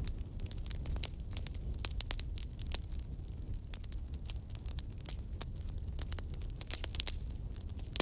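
Wood campfire burning: a steady low rumble of flames with frequent irregular crackles and pops from the burning wood.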